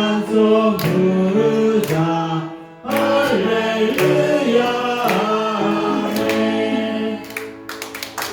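A group of voices singing a Korean hymn with instrumental accompaniment, in held, sustained notes. There is a short break between phrases about a third of the way in, and the music dies down near the end.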